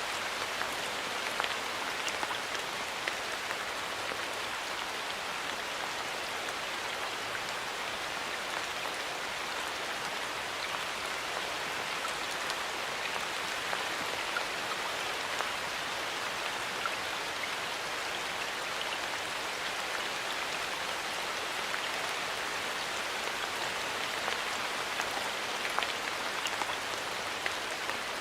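Steady rain falling in a forest, an even patter of many small drops hitting leaves and surfaces.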